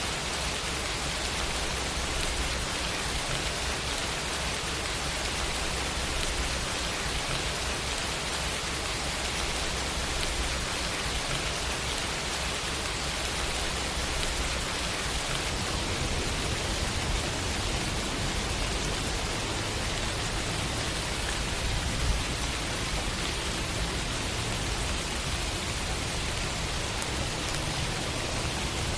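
Steady rain falling, an even hiss with a low rumble underneath and one brief sharper tick about three quarters of the way through.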